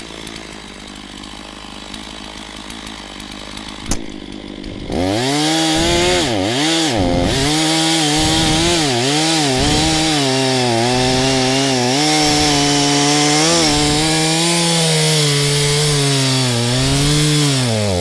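Stihl MS460 two-stroke chainsaw idling, then about five seconds in opening to full throttle and cutting through a large firewood round, its pitch dipping again and again as the chain bogs in the wood; it drops back off the throttle at the very end.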